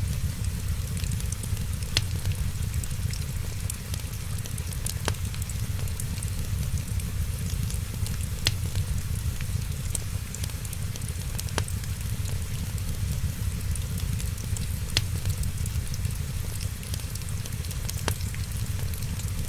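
Wood fire crackling: a steady low rumble and hiss with sharp pops every few seconds.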